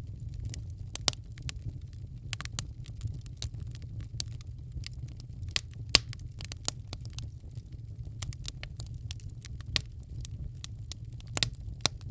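Wood fire crackling in a fireplace: irregular sharp pops and snaps, the loudest about six seconds in, over a steady low rumble.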